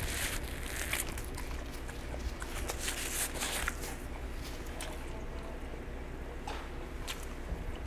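Close-miked chewing of roast chicken, with paper-napkin rustling as the mouth is wiped in the first second. Near the end a plastic fork clicks lightly against a glass bowl.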